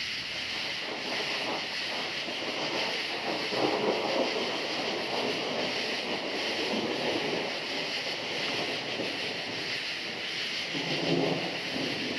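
Rolling thunder rumbling in several slow swells, the strongest about a third of the way in and near the end, over a steady chorus of crickets.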